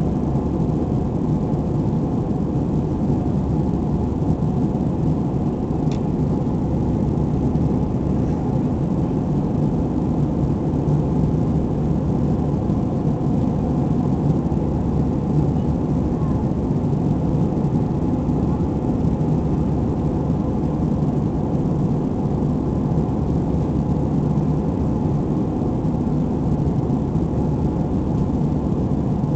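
Steady cabin drone of an Airbus A320 in flight: engine hum and rushing airflow, a constant low rumble that does not change.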